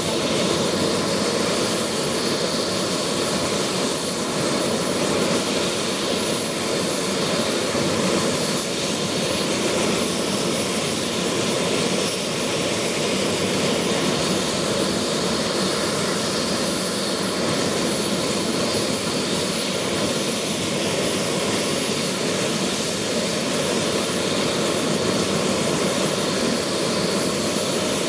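Bell 222's twin Rolls-Royce 250-C30G turboshaft engines running steadily, a constant turbine rush with a thin high whine held at one pitch.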